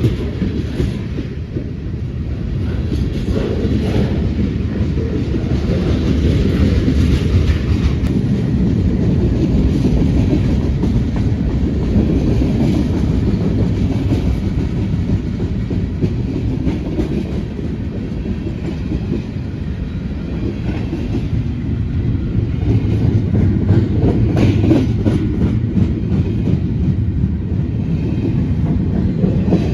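A train rolling past close by: a steady heavy rumble with steel wheels clicking over the rail joints throughout.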